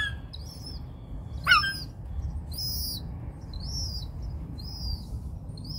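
Gull calls: a run of short, high-pitched peeps repeating about every three quarters of a second, with one louder, lower call about a second and a half in. The thin peeping is typical of a large gull chick still begging from its parents.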